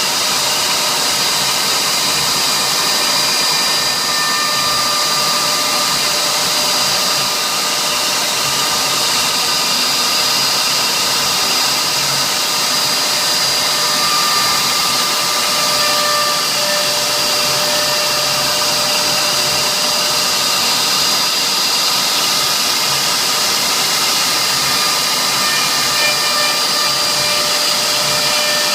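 CNC router engraving a signature board: the spindle runs steadily with a high whine over a loud hiss, its pitch shifting slightly now and then as the load changes.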